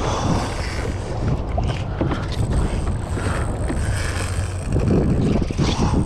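Strong wind buffeting the camera microphone in a steady low rumble, with water sloshing around a kayak.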